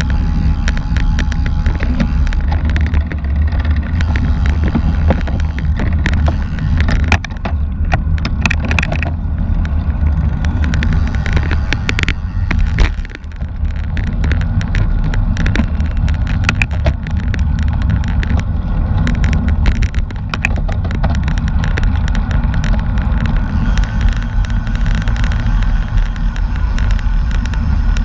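Wind buffeting the microphone and road noise from a bicycle ridden at speed, a steady low rumble with frequent small rattles and clicks, easing briefly about halfway through.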